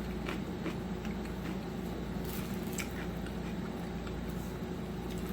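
Faint chewing and mouth sounds, scattered soft clicks and squishes, over a steady low electrical hum.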